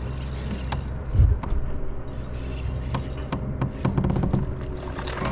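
Fishing reel being cranked in runs of quick mechanical clicks while a hooked largemouth bass is played, over a steady low rumble, with a dull thump about a second in.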